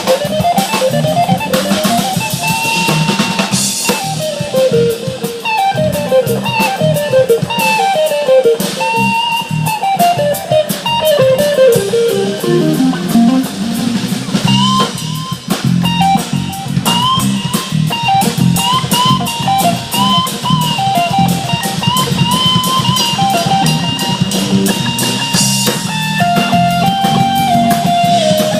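Live rock band playing an instrumental jam: a lead guitar plays fast descending runs over a steady bass line and drum kit, then moves to higher repeated phrases about halfway through. Cymbal crashes come about 3 seconds in and again near the end.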